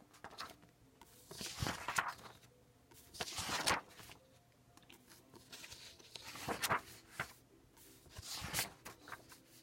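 Paper rustling in a few short bursts, as book pages are handled and turned.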